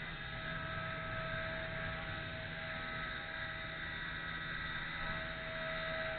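WLtoys V930 RC helicopter's brushless motor and rotor spinning, a steady whine at a constant pitch.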